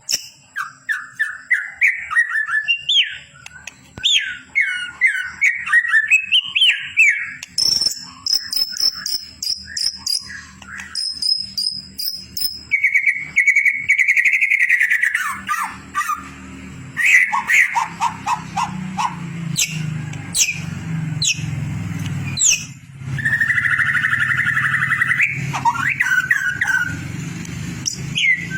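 White-rumped shama singing a long, varied song of loud whistled phrases, quick up-and-down notes and rapid high trills. A steady low hum sits underneath from about halfway through.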